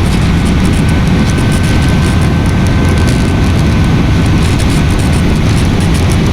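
Airliner cabin noise in flight: a steady, loud rumble of engines and airflow, with a faint high whine through the middle.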